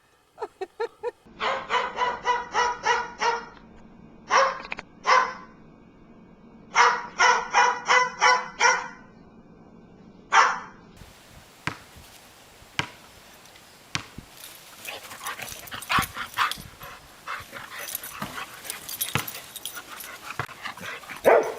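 A small dog yapping in quick runs of high-pitched barks, about four a second, with short pauses between the runs. From about halfway on come scattered clicks and rustling instead.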